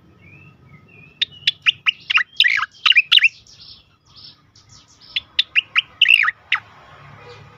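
Sooty-headed bulbul calling in two quick runs of sharp, steeply down-slurred notes, the first about a second in and the second about five seconds in.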